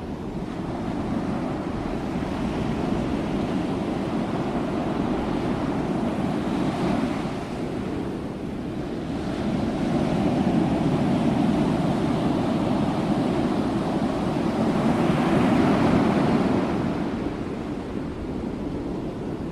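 Sea waves washing in and out in a continuous rushing surf that swells and ebbs. The loudest surge builds from about halfway through and peaks a few seconds before the end, then falls away.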